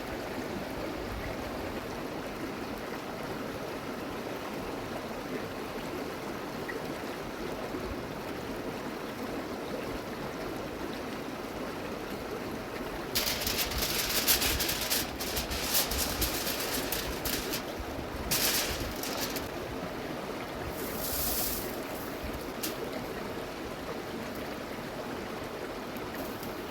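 Steady rush of a flowing river. From about halfway through, bursts of crisp rustling and crackling come in on top, on and off.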